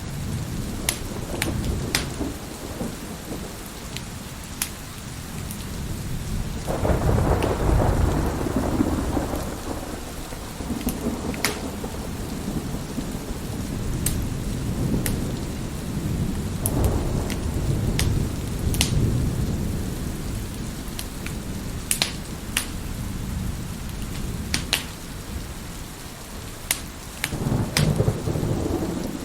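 Wood fire crackling with sharp, scattered pops over steady heavy rain, with rolling thunder swelling and fading several times; the loudest roll comes about seven seconds in, and another near the end.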